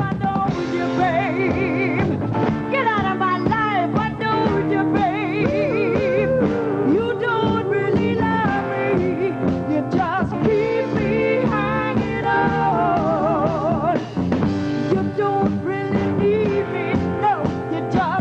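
A live band with drums, bass and guitar playing an up-tempo rock-and-roll number, with a lead line sung or played with a wide, wavering vibrato over it.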